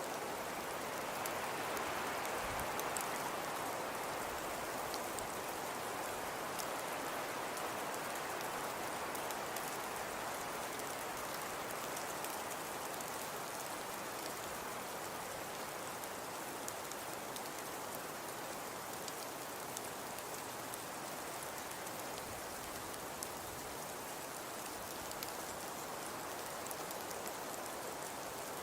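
Fireplace fire crackling: a steady hiss with small pops and snaps scattered throughout.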